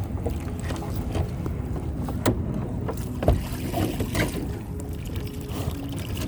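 Water noise around a kayak as a crab trap is hauled up from the sea, with a few sharp knocks, the loudest about three seconds in.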